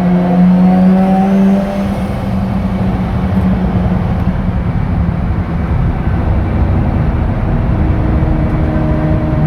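Bridgeported Mazda 13B twin-rotor rotary engine of an RX-7 FD3S, run through an RE Amemiya exhaust in a tunnel. The engine note climbs under throttle, then drops off about two seconds in to a rough rumble, and builds again near the end.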